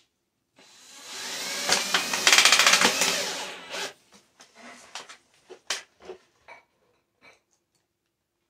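Power drill driving a screw into thin tin sheet metal: the motor runs for about three seconds, loudest shortly before it stops, followed by a few light clicks and taps.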